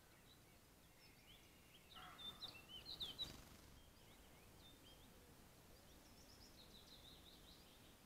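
Faint birdsong from small birds: short high chirps and trills, with a louder run of chirps about two to three seconds in and more near the end. A brief rustling noise sounds about three seconds in.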